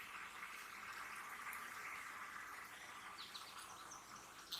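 Faint steady insect drone with a few short bird chirps about three seconds in, and a light tap near the end.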